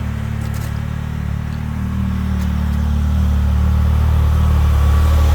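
Can-Am Maverick X3 turbo side-by-side's engine running with a steady low hum, growing a little louder over the last few seconds.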